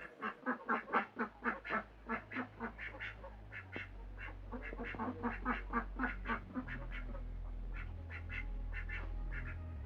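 Duck quacking in a rapid series, about four quacks a second, loud at first and fainter after about three and a half seconds.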